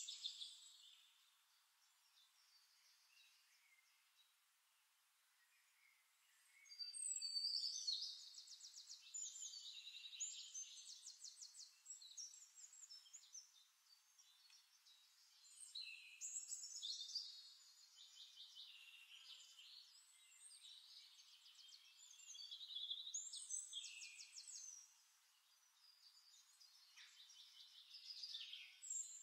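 Faint birdsong: high, rapid trilling phrases lasting a few seconds each. They come and go with quiet gaps between, and are loudest about seven seconds in.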